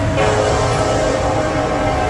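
Diesel locomotive air horn sounding a held multi-note chord that starts suddenly about a fifth of a second in, over the low rumble of the approaching train.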